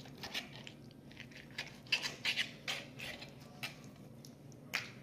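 Faint kitchen handling noises: a few light clicks and knocks of things being moved or set down, with one sharper knock near the end.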